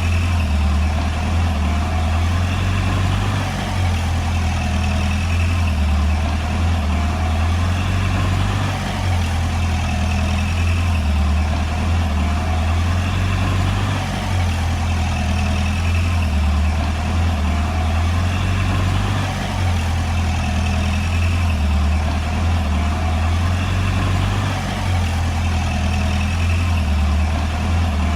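Komatsu D20P bulldozer's diesel engine running steadily as it works, its deep drone swelling and easing slightly every few seconds.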